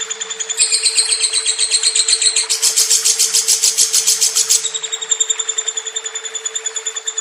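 Lovebird chirping in a rapid, unbroken trill of about ten notes a second, growing louder and higher from about half a second in until about five seconds in.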